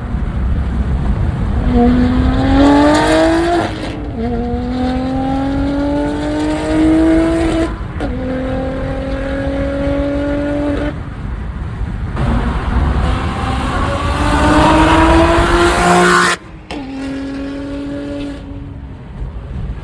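BMW G80 M3's S58 twin-turbo inline-six through a VANTA Edition equal-length X-pipe catback and 3.5-inch Max Flow downpipes, accelerating hard through the gears: the exhaust note climbs in pitch and drops sharply at each upshift, about four times, then holds steadier near the end.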